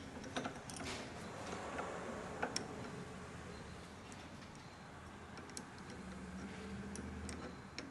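Irregular light clicks and taps of hand tools and metal hardware being handled during assembly, a few close together in the first couple of seconds and a handful more spread through the rest.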